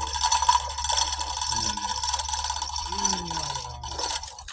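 Continuous mechanical ratcheting and rattling with a steady high-pitched tone, typical of lifting gear working as an engine is eased out; it fades near the end.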